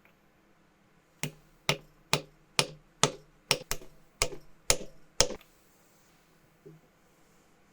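A run of about ten sharp knocks, evenly spaced at roughly two a second, like light hammer blows in a workshop, followed by one faint knock near the end.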